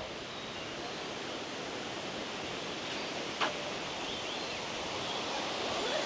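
Steady rushing roar of a large waterfall heard from afar, with one brief click about halfway through.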